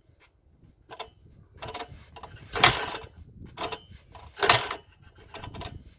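The single-cylinder UD-15 petrol engine of an MTZ-05 walk-behind tractor being cranked over with its starter, six strokes just under a second apart, turning over without catching. The engine is cold and does not fire.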